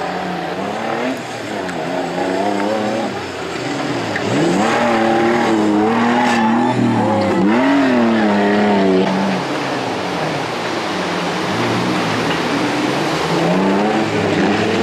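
Off-road race vehicle's engine revving hard, its pitch rising and falling again and again as it is driven over rough ground, loudest in the middle.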